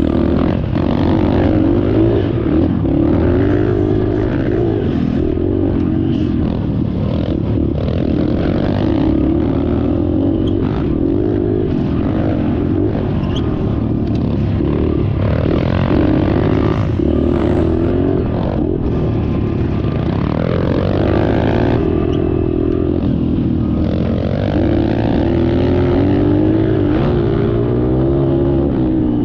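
Small dirt bike engine running under way, its revs rising and falling continuously as the bike is ridden around a track.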